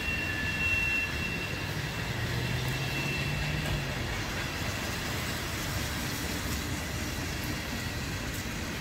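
Freight train cars rolling past with a steady rumble, one car's wheels squealing in a high, steady tone that is strongest in the first few seconds and then fades.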